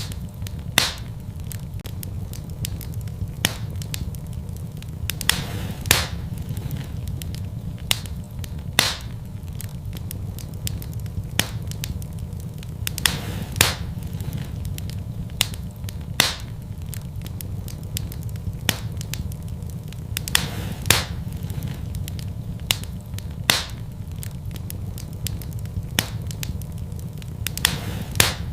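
Wood fire burning in a fireplace: a steady low rumble of the flames with sharp crackles and pops every second or two.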